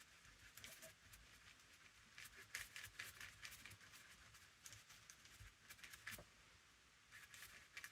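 Faint, irregular scratching and rustling of paper being handled and glued, in short clusters of strokes as the glue is spread over a journal cover.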